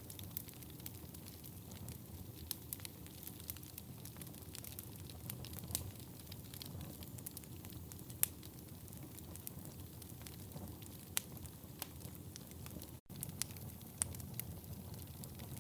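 Wood fire burning in a fireplace: a steady low rumble of flames with frequent irregular sharp crackles and pops, one louder pop about halfway through. The sound drops out for an instant about two-thirds of the way through.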